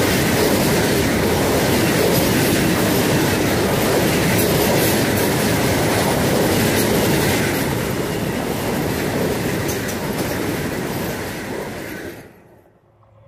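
Vande Bharat Express electric multiple unit passing close by, a loud steady rush of wheels on rail and coaches going past. It eases off as the last coaches pass and drops away sharply near the end.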